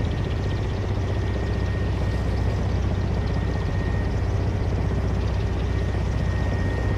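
Rotors of the CityAirbus demonstrator, an electric quadcopter air taxi, running steadily with a deep hum and a thin, steady high whine.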